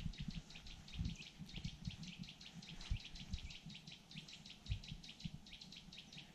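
A bird calling non-stop: a fast, even run of short, high notes, about six a second, faint and unbroken. Scattered low thumps lie under it.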